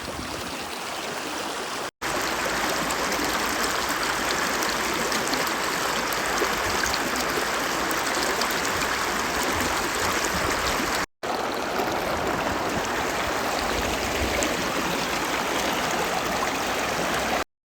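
Steady rush of a flowing mountain stream, cut off for an instant twice and a little louder after the first break.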